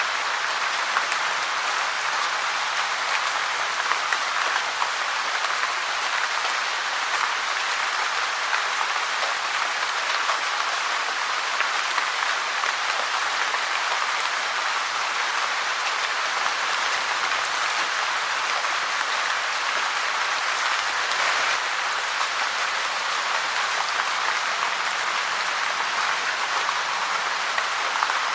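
Steady rain falling, a dense even patter of drops on a surface with no change in intensity.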